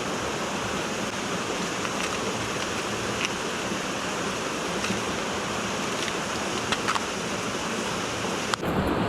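Steady rushing of a mountain stream, with an abrupt change in the sound just before the end.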